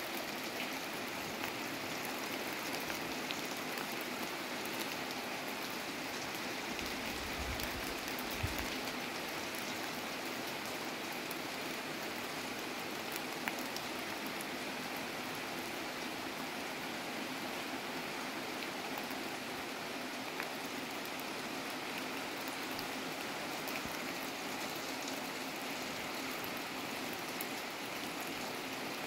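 Heavy rain falling steadily, a constant even hiss of rain on pavement and parked cars, with a few sharper drop ticks standing out.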